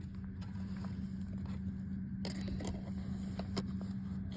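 Steady low background hum, with a few faint clicks and taps from a plastic DVD case and disc being handled.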